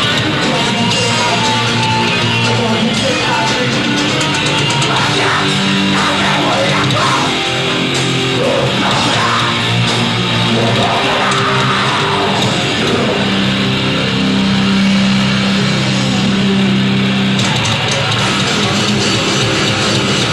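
A live rock band playing loud, heavy rock music led by electric guitar.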